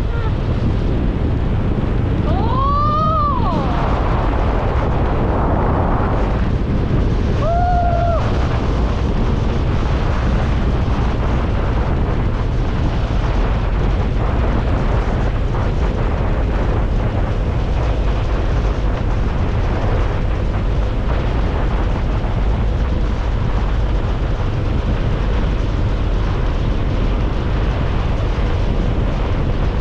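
Wind buffeting the microphone over a motorcycle's running engine while riding, a steady heavy rumble. A brief tone that rises and falls in pitch sounds twice in the first eight seconds.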